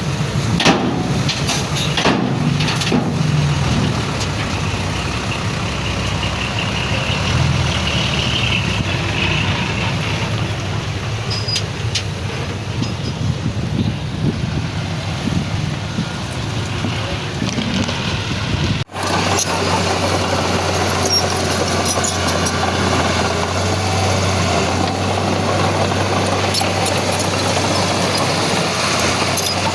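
Diesel engines of earthmoving machinery running, with a few sharp knocks in the first few seconds. About 19 seconds in the sound breaks off abruptly and gives way to a steadier low engine drone.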